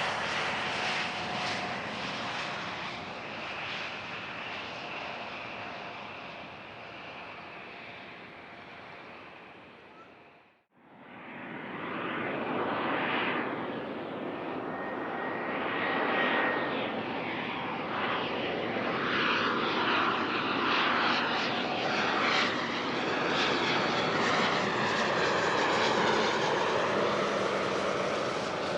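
A Hawker 800XP business jet's Honeywell TFE731 turbofans, with a steady whine, fading as the jet moves away. After a brief cut about ten seconds in, a Bombardier Global 6000's Rolls-Royce BR710 turbofans grow louder, with whines that shift in pitch.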